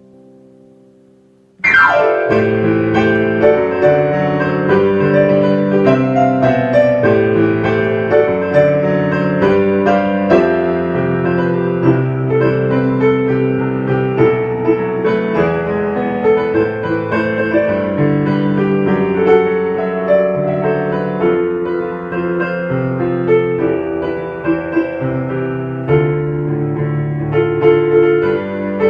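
Background piano music. A held chord dies away, and about two seconds in a lively piano piece starts abruptly and plays on.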